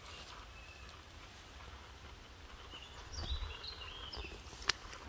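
Birds chirping in short, high calls from about three seconds in, over a low rumble, with one sharp click near the end.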